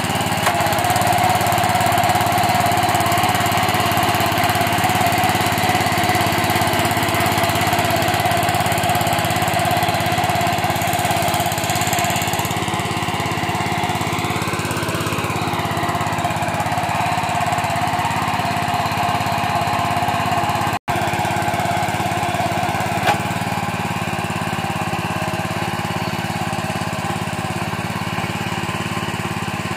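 Small diesel engine of a four-wheel power weeder running steadily at a constant speed, with a brief gap in the sound about two-thirds of the way through.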